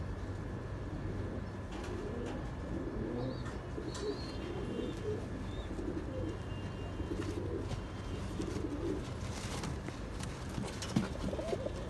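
Domestic pigeons cooing: a run of low, throbbing coos repeated for several seconds, with a few faint high chirps from other birds and a steady low hum behind.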